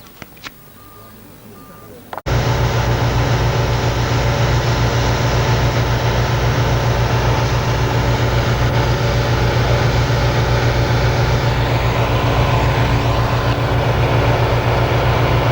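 A few faint clicks, then about two seconds in an engine cuts in suddenly and runs loud and steady, with an even low pulsing drone.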